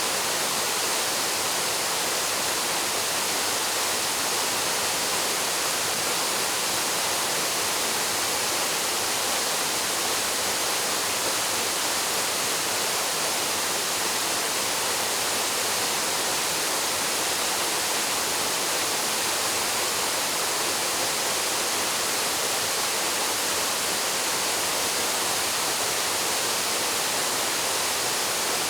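Waterfall: a steady, unbroken rush of falling water, heavy in the high hiss and with little low rumble.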